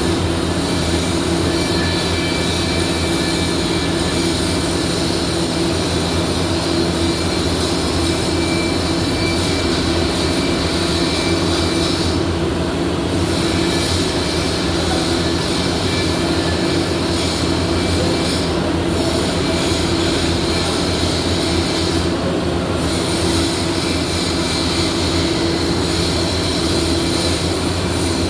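Steady, loud welding-workshop noise: constant machine hum with a hiss over it, the hiss dropping out briefly about twelve seconds in and again around eighteen and twenty-two seconds.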